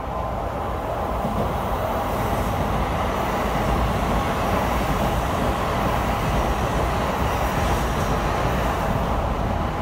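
Tokaido Shinkansen N700A high-speed train running past on an elevated viaduct: a steady rolling rumble that grows a little louder over the first couple of seconds and then holds.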